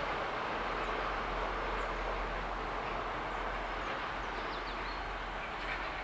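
Rolling noise of a freight train's wagons on the rails, steady and slowly fading as the train draws away. A few short bird chirps come in about four to five seconds in.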